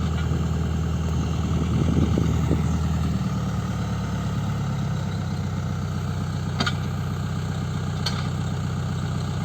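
Tata Hitachi Zaxis 120 excavator's diesel engine running steadily at low speed, its note shifting slightly about three seconds in. Two short clicks come later.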